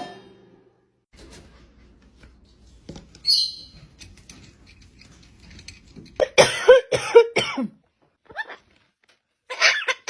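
A run of about five short coughs in quick succession around the middle, with another burst of similar sounds starting near the end.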